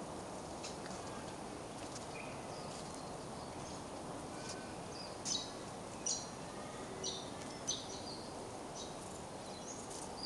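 Small birds chirping: a handful of short, high, quick calls, mostly in the second half, over a steady outdoor background hiss.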